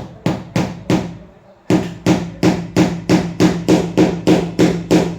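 Repeated hammer blows on something that rings with a low tone. Three strikes, a short pause about a second in, then a steady run of about three blows a second.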